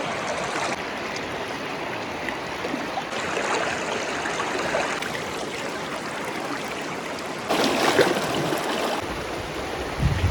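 Stream water flowing steadily, with a louder stretch of rushing water between about seven and a half and nine seconds in.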